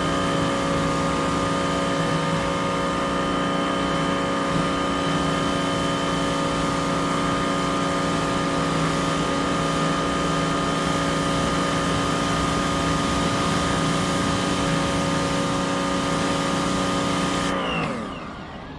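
Electric pressure washer running steadily, its motor and pump holding several constant tones under the hiss of the water jet. Near the end the spray stops suddenly and the motor's pitch falls as it winds down.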